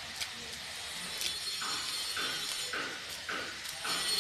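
Close-up eating sounds: chewing a mouthful of rice and mutton curry, with short rhythmic mouth sounds about twice a second from about a second and a half in, over a steady faint hiss.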